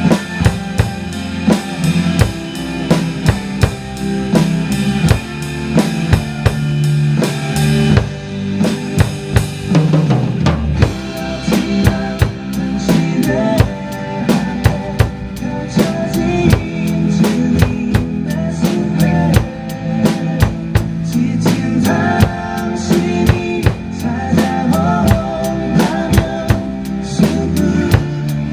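Acoustic drum kit played along to a backing track: kick drum, snare with rimshots and cymbals in a steady groove. The cymbals briefly drop out about eight seconds in, and the beat gets busier a few seconds later.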